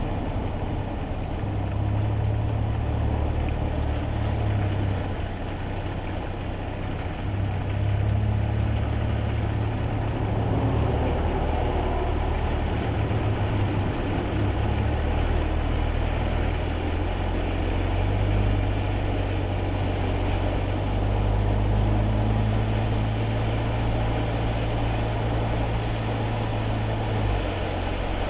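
Cabin noise of a kei car driving on a wet road: a low engine and road drone that shifts in pitch a few times, under a steady hiss of tyres on wet tarmac and rain.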